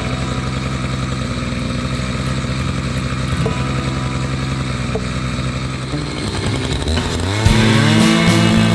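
Two-stroke chainsaw engine running steadily at low speed, then throttled up near the end, its pitch rising to a high, wavering run at full throttle as it goes into a cut.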